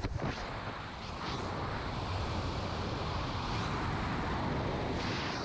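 Steady rushing wind noise on the microphone, with no clear engine tone, as in skydiving footage.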